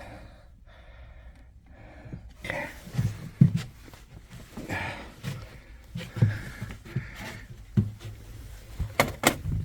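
Handling noise in a small enclosed space: a series of dull knocks and thumps with rustling and breathy hiss, then two sharp clicks close together near the end.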